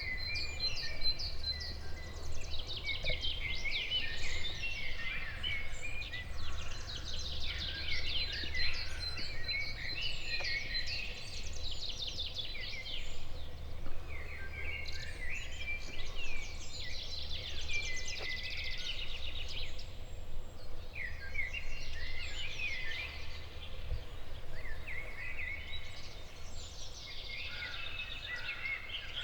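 Several songbirds singing at once, overlapping phrases of quick chirps and trills with hardly a gap, over a steady low background rumble.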